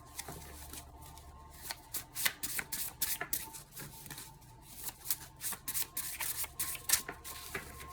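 A deck of oracle cards being shuffled by hand: irregular sharp flicks and snaps of the cards, coming in quick clusters, with the loudest snap near the end. A faint steady hum runs underneath.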